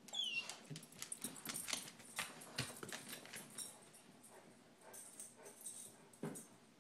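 Border Collie–Lab mix puppy making a run of short, sharp sounds, with a high falling squeak right at the start.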